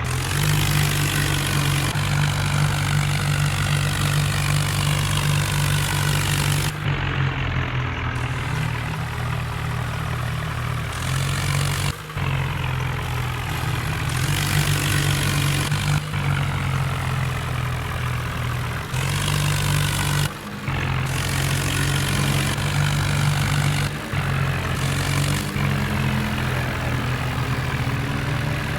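Tractor engine running steadily at a constant pitch, with several sudden short breaks in the sound.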